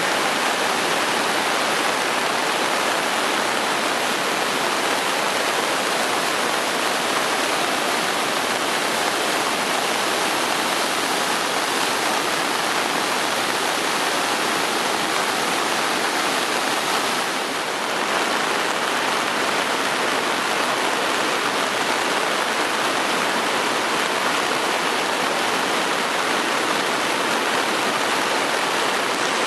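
Wide river waterfall in flood, its water running high after days of rain, giving a loud steady rush.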